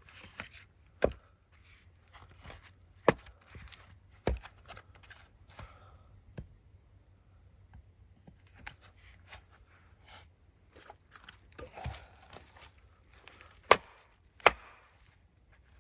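Firewood being split by hand: sharp chopping strikes into wood, three in the first few seconds and two near the end, with lighter knocks and clatter of wood between and a quieter pause in the middle.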